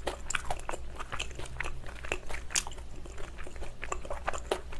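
A person chewing a mouthful of thin-crust steak and cheese pizza, with soft crunching and wet mouth clicks coming irregularly several times a second.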